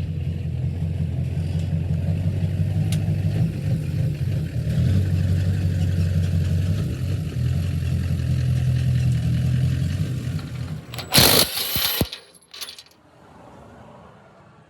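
A vehicle engine idling steadily with a low, even hum. About eleven seconds in there is a brief loud clatter, and then the engine goes quiet.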